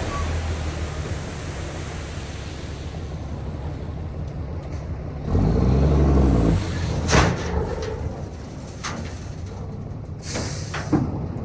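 Diesel engine of a Kenworth W900B dump truck, a CAT C13, running steadily, revving up and back down briefly about halfway through. Sharp hisses of air being released, typical of truck air brakes, come twice in the second half.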